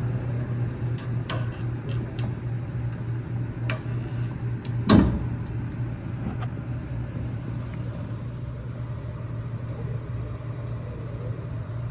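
Heavy truck engine running steadily during a tow-truck recovery of an overturned dump truck, with scattered metallic clanks and one loud thump about five seconds in.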